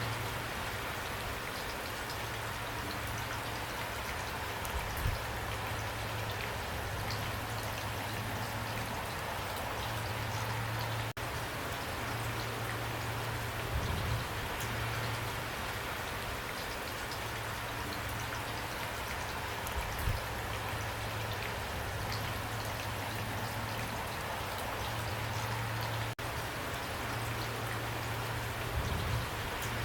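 Heavy rain pouring steadily, with a few louder drops landing close by now and then.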